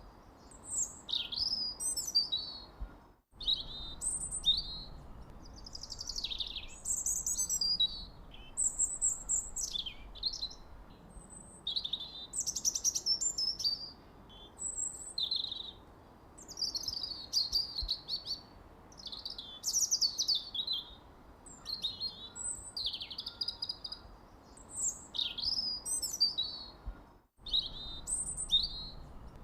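Several songbirds chirping and trilling, a dense run of short overlapping calls, with two brief drops to silence about three seconds in and near the end.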